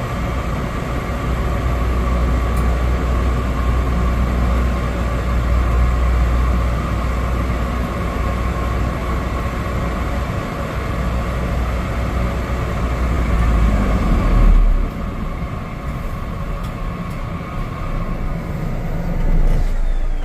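Steady cabin noise of a Cessna 208 Caravan's single PT6A turboprop engine and propeller, a deep rumble with a steady whine on top; the noise drops and thins out about two-thirds of the way through.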